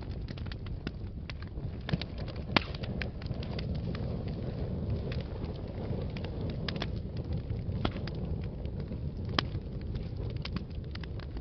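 Fire in a fireplace crackling steadily, with frequent small pops over a low rumble. Two louder pops come about two and a half seconds in and near nine and a half seconds.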